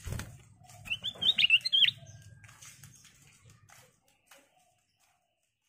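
Black-crested bulbul singing one short phrase of quick, up-and-down whistled notes about a second in, over a low background hum. There is a thump at the very start, and all sound stops about four seconds in.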